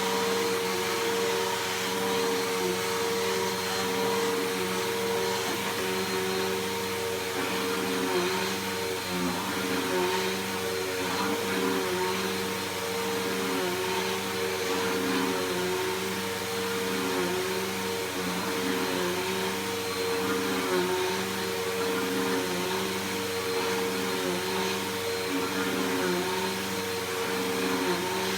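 Bissell PowerForce Helix Turbo upright vacuum cleaner running steadily, with a constant motor whine and a faint wavering about once a second as it works over the floor.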